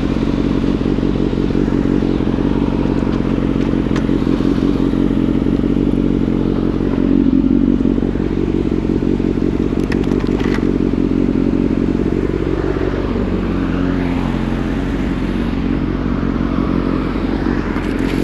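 Motorcycle engine running steadily under way, a little louder about halfway through, then falling in pitch as the bike eases off.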